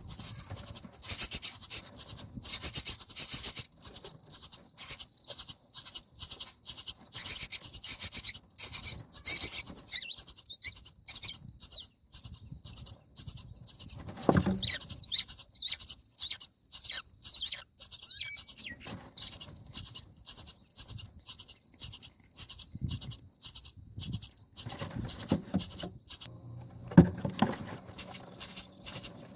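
Common myna nestlings calling in the nest: a fast, unbroken run of short, high-pitched, raspy calls, about three a second.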